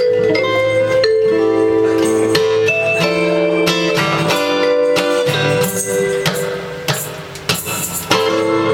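Live ragtime-blues music on keyboard with a plucked string instrument, playing held chords and melody notes. The playing thins out and drops in loudness for a couple of seconds near the end, then picks up again.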